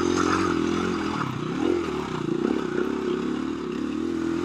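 KTM 350 EXC-F dirt bike's single-cylinder four-stroke engine pulling up a steep, rough hill climb. Its pitch wavers and dips a little as the throttle comes on and off.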